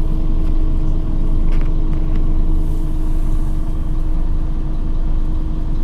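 Scania OmniCity city bus running, heard from inside the passenger cabin: a steady low engine and drivetrain rumble with a constant hum.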